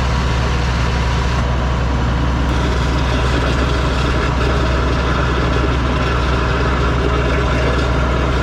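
An engine running steadily at one constant speed, with a strong low hum.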